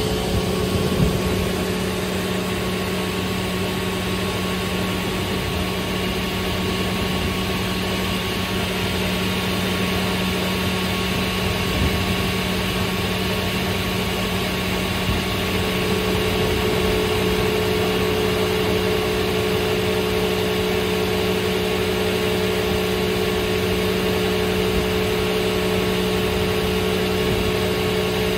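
Sicar single-shaft crawler-feed multi-rip saw running with a steady hum, its pitch constant throughout. A higher tone comes in more strongly about halfway through, with a few faint knocks along the way.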